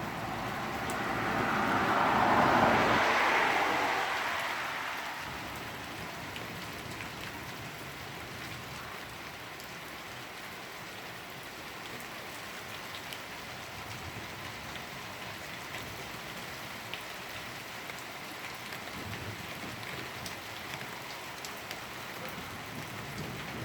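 Steady rain falling and pattering on surfaces, with scattered drip ticks. Near the start a louder whooshing swell builds for a couple of seconds and then fades over about three more.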